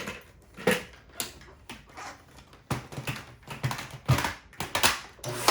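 Irregular clicks and knocks of the vacuum being handled and set up, then a Dyson vacuum cleaner motor switching on just before the end.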